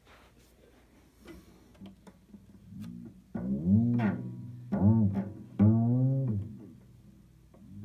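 Cello making an odd sound found while tuning: low notes that each swoop up in pitch and back down. A few faint ones come first, then three loud ones about a second apart.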